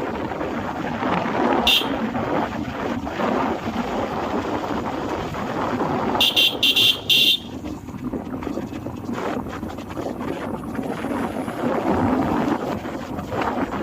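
A vehicle's steady running noise with wind on the microphone, cut by short high horn toots: one near two seconds in and a quick string of four about six seconds in.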